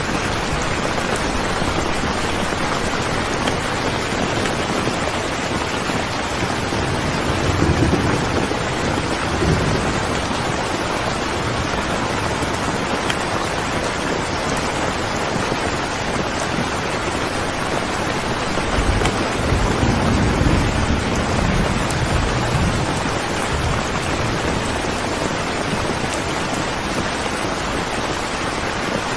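Steady rain falling, with low rolls of thunder rumbling about a quarter of the way in and again around two-thirds of the way through.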